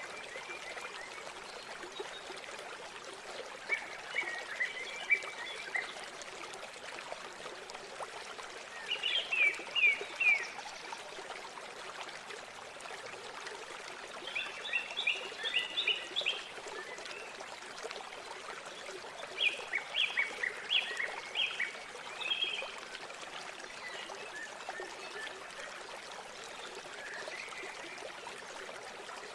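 Steady rushing of flowing river water, with a songbird singing short, quick phrases of rapid high notes every few seconds.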